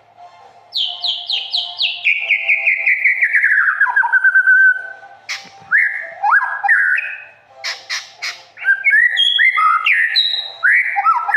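White-rumped shama singing: a fast run of notes sliding down in pitch over about four seconds, then a string of varied, quickly changing whistled phrases broken by a few sharp clicks.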